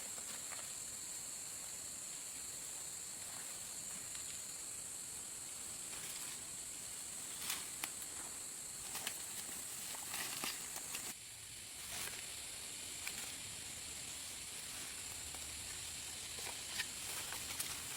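Steady high-pitched insect chorus, broken by scattered light clicks and rustles, with a brief drop in the chorus about eleven seconds in.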